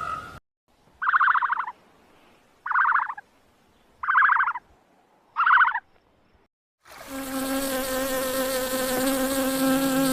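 Insect buzzing: four short, rapidly pulsed buzzes about a second and a half apart, then a steady, continuous droning buzz that begins near the end.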